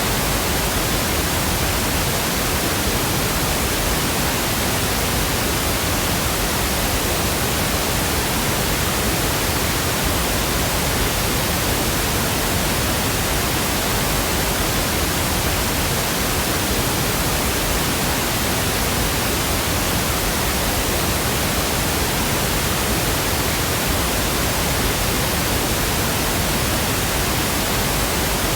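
Pink noise: a constant, even hiss spread across the whole range from deep to high, steady in level, with no change or break.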